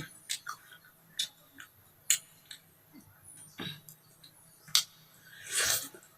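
Eating sounds while someone eats spicy noodles and fried chicken: scattered sharp clicks and smacks, loudest about two and five seconds in, then a short noisy rush near the end.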